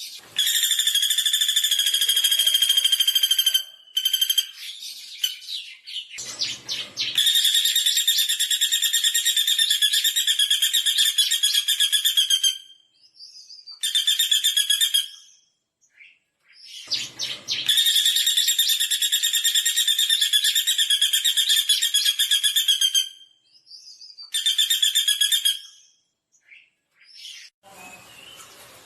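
Common flameback woodpecker (pelatuk bawang) calling: long, fast, high rattling trills lasting several seconds each, repeated with short pauses, with shorter bursts of the same call between them.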